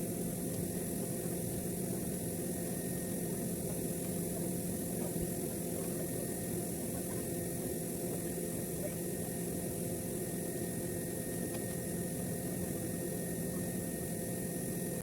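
A motor-driven machine running steadily, a constant hum with a few fixed tones that holds level throughout.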